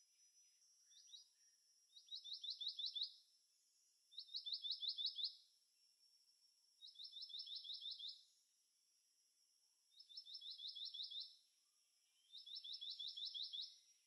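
Black-naped monarch singing: five short runs of about seven quick whistled "wi-wi-wi" notes, each note dropping in pitch, with a pause of a second or two between runs.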